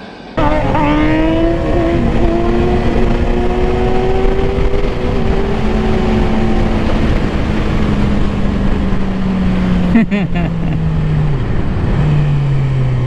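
Suzuki GSX-R sportbike's inline-four engine revving up quickly, then running at steady, slowly falling revs under wind rush. It breaks off briefly about ten seconds in, and its pitch steps down twice near the end.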